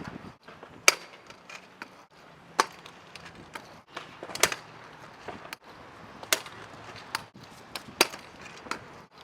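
Skatepark sounds: sharp clacks of decks and wheels hitting concrete and ledges, one every second or two, over a low steady hum.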